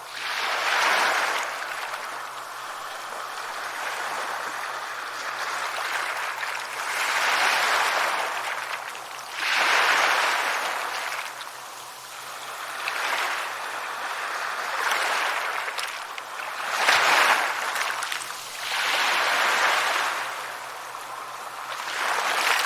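Sea waves breaking and washing up a shore, the surf swelling and falling back every two to three seconds, with one sharper break late on.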